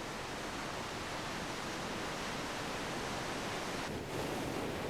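Steady rushing of water, an even noise without distinct strokes, shifting slightly about four seconds in.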